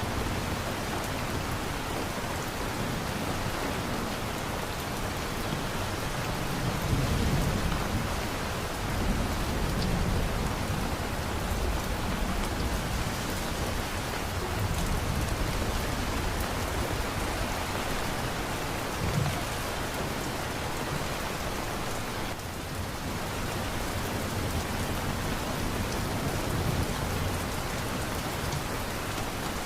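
Heavy rain falling steadily, with low rolls of distant thunder swelling up a few times, around a quarter of the way in and again near the end.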